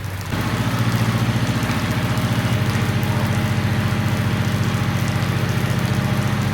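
A vehicle engine idling steadily and close by, with an even pulsing beat; it becomes suddenly louder about a third of a second in.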